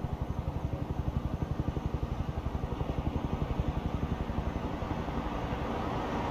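A vehicle engine's low rumble pulsing fast and evenly, about eight beats a second, turning steadier and a little louder near the end.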